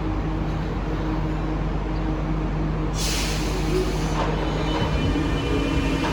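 Santiago Metro train at the platform, its traction equipment giving a steady hum with a held tone. About three seconds in, a sudden loud pneumatic hiss of released air starts and eases off over a second or so.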